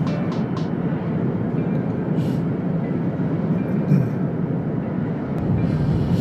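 Steady low vehicle rumble running evenly, with no horn or distinct clanks.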